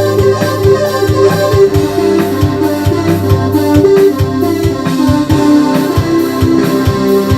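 Roland D-50 synthesizer patch playing held organ-like keyboard chords that change a few times, over a steady drum beat.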